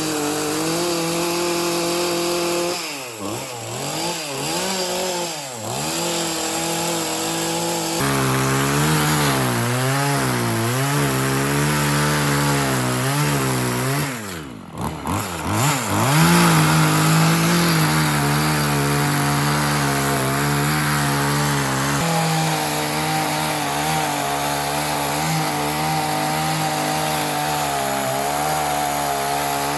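Chainsaw cutting wood, its engine running at high revs. The throttle eases off and picks up again twice, around three seconds in and halfway through.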